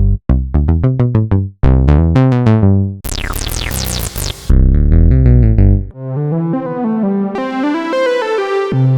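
Roland System-100 software synthesizer playing through preset patches. First come quick runs of short notes, then a noisy sweeping patch with falling tones about three seconds in, then a held melodic line in the second half.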